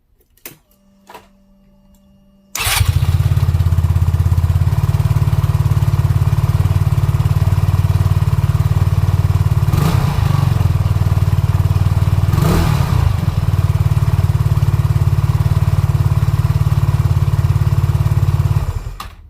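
SYM New Fighter scooter's single-cylinder four-stroke engine: a few light clicks, then it starts abruptly and idles with a steady pulse. It is blipped twice, rising and falling in pitch, before being switched off near the end. It runs as a check on the crankshaft and starter-clutch noise.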